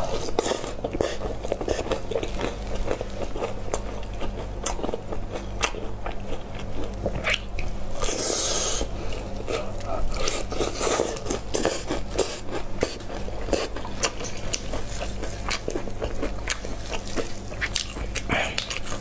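Crispy batter-fried chicken being bitten and chewed close to the microphone: irregular crunches and crackles of the coating with wet mouth sounds, over a steady low hum.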